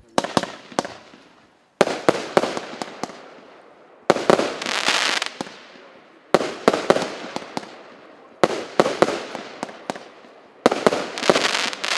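Multi-shot consumer firework cake (battery) 'Kraski zhizni' P7326 firing. Six volleys come about every two seconds, each a cluster of sharp bangs followed by a fading hiss and crackle.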